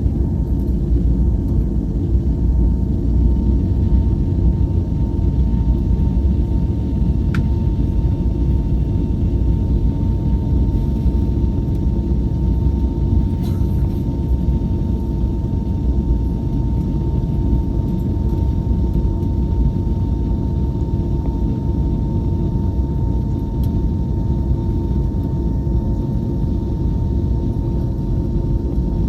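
Steady cabin rumble inside an Airbus A321neo airliner, with a faint constant whine over it.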